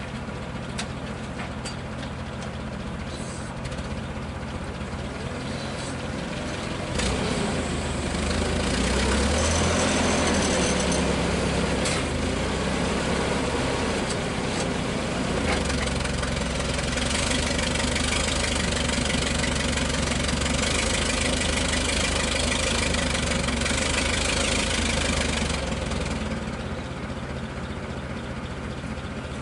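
A motor vehicle's engine running: it picks up and gets louder about 7 seconds in, with the pitch rising and falling, runs steadily for a while, then drops back to a lower idle-like hum near the end.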